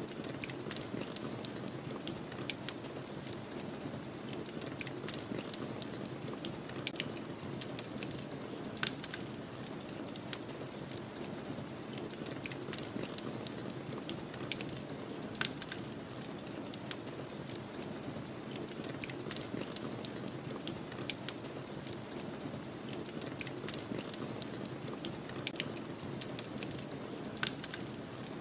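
Wood fire crackling, with frequent irregular sharp pops and snaps, over a steady low rush of snowstorm wind.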